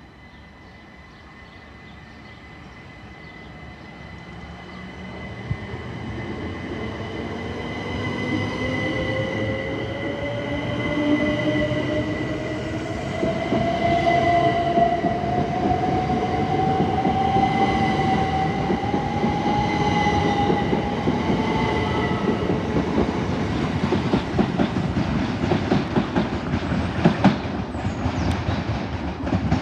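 Two coupled Class 375 Electrostar electric multiple units pulling away and accelerating, their traction motors whining in a pitch that rises steadily, growing louder as the train draws past. A few sharp wheel clicks over the rail joints come near the end.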